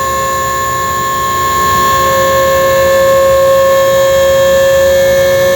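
Automatic flood barrier's warning siren sounding one loud, steady tone, signalling that the barrier is deploying.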